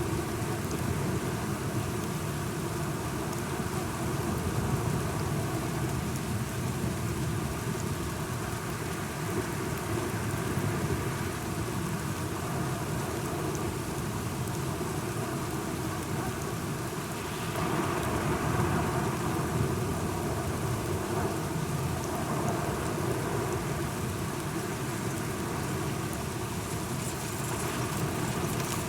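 Steady rain with low, rolling thunder. The storm swells louder for a few seconds about two-thirds of the way through.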